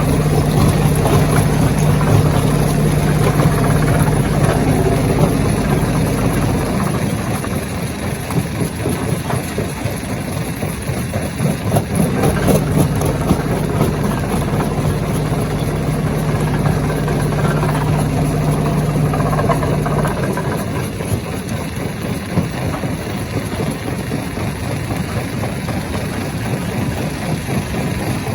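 Stone crusher machine running under load: a dense, continuous rattling and grinding of rock. A steady low hum stops about seven seconds in, comes back a few seconds later and stops again about two-thirds of the way through.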